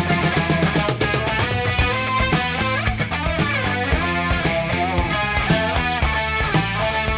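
Instrumental passage of a late-1970s hard rock trio recording: electric guitar playing quick runs of notes over bass and drums, with no singing.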